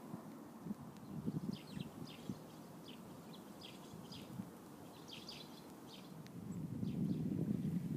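Birds chirping: a run of short, high calls in quick succession, then wind rumbling on the microphone, growing louder near the end.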